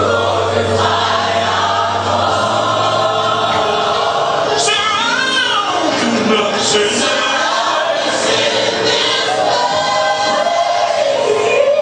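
Gospel music with a choir singing, and a solo voice bending through a falling melismatic run about halfway through.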